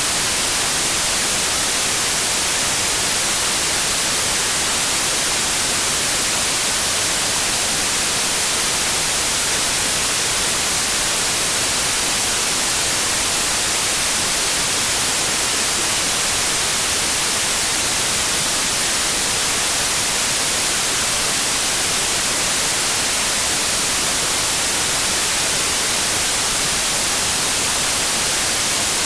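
Steady electronically generated white noise: an even, unchanging hiss across the whole range, strongest in the high treble.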